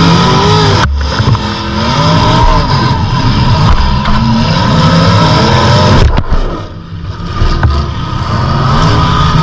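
Demolition derby car engines running loudly and revving, their pitch rising and falling, with a brief drop in level about six seconds in.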